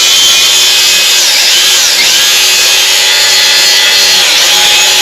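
Angle grinder with a flap disc grinding down welds on steel body panels. The motor's whine sags and recovers several times as the disc is pressed into the metal and eased off in light passes, to keep the thin sheet from overheating or being ground through.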